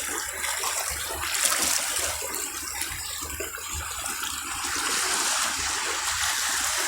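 Sea water washing over and around shoreline rocks: a steady rushing hiss, with a low rumble underneath.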